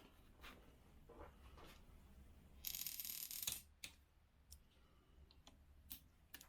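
Mostly quiet workbench with a few light clicks and taps of tools or parts on metal, and one short hiss of under a second about three seconds in.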